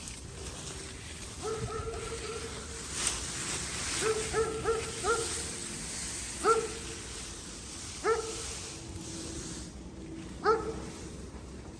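A dog barking in short, pitched calls, about eight in all, with a quick run of four around four seconds in and a drawn-out whine shortly before the last bark.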